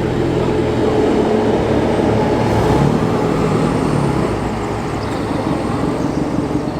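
A classic car's engine running as the car drives past, growing loudest about two to three seconds in and then easing off.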